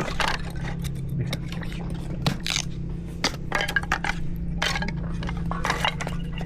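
Dishes and utensils clinking and scraping in a quick, irregular run of knocks, over a steady low hum.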